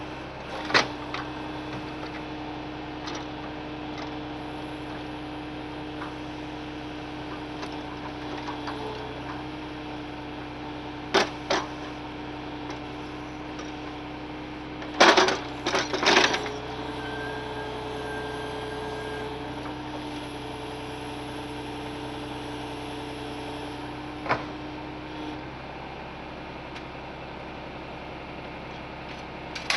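Logs being unloaded from a Ural timber truck: a steady engine hum that shifts slightly in pitch a few times, with several sharp knocks of logs striking, the loudest cluster about halfway through.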